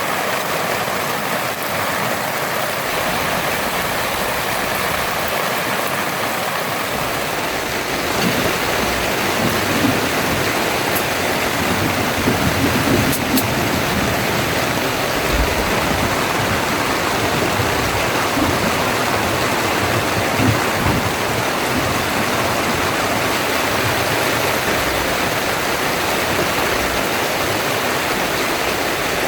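Heavy rain falling steadily, an even hiss, growing a little louder about eight seconds in with irregular low rumbles.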